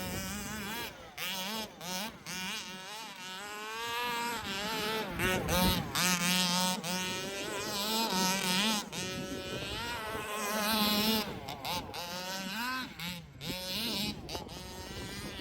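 The 29cc two-stroke engine of a 1/5-scale HPI Baja 5B RC buggy buzzing as it revs up and down again and again under throttle.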